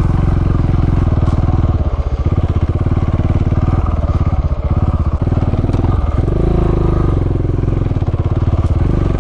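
KTM 690 Enduro's big single-cylinder engine running at low speed on a trail, with the throttle easing off and picking up again a few times.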